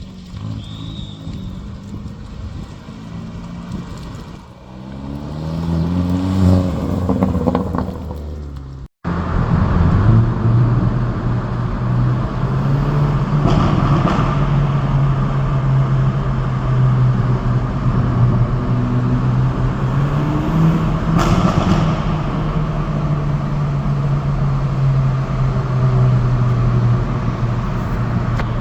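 Hyundai i30 N Fastback's turbocharged 2.0-litre four-cylinder engine climbing in pitch as the car accelerates. After a break about nine seconds in, it runs at a loud, steady drone with small rises and falls.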